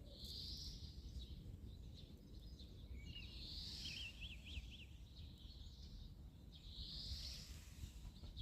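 A songbird singing outdoors: one short high phrase repeated three times, about three seconds apart, with a quicker warbling chirp in between, over a low steady background rumble.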